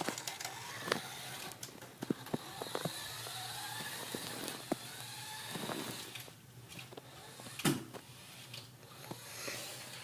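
Small electric motor of a toy remote-control car whirring, its pitch rising and falling with the throttle, with several sharp clicks and knocks as the car bumps about.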